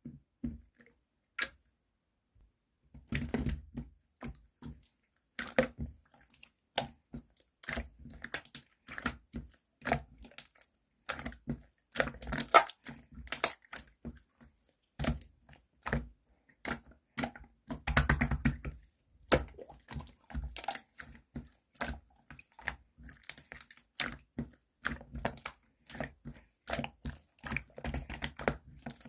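Colorless clear slime with a jelly-like texture being squeezed and worked by hand, making irregular wet clicks and pops. The clicking becomes steady from about three seconds in.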